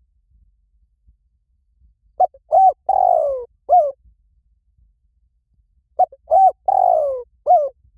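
Spotted dove cooing: two phrases, about four seconds apart. Each phrase is four coos whose third note is long and falls in pitch.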